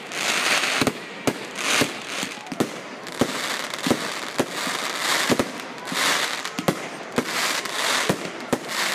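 Fireworks display: a rapid run of sharp bangs from bursting shells, about one or two a second, with several stretches of dense crackling in between.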